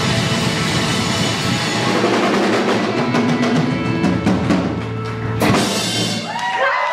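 Live rock band playing the end of a song, with a run of drum hits building to a final crash about five and a half seconds in that briefly rings out. Voices come in right at the end.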